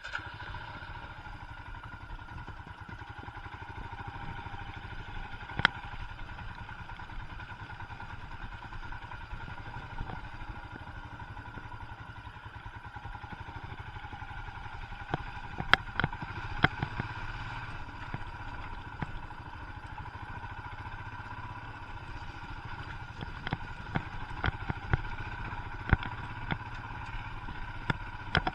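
Royal Enfield Himalayan's 411 cc single-cylinder engine running steadily at low speed, with sharp knocks and clattering, most of them around the middle and the last few seconds.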